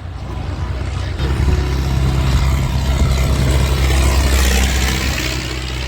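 Tractor engine running steadily with a low hum, growing louder about a second in and then holding.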